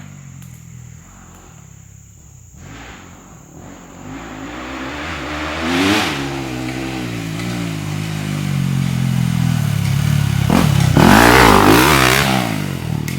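Dirt bike engine revving up and down, growing louder as the bike comes closer, with the loudest revs about eleven seconds in before it eases off near the end.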